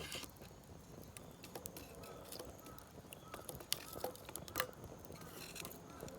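Wood fire crackling in a kamado shichirin brazier: faint, irregular sharp pops and clicks, with a few louder snaps near the middle.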